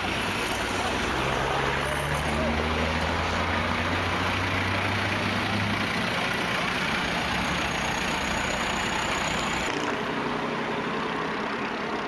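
Motor vehicle running, with a steady low engine hum over road noise. The sound changes abruptly about ten seconds in.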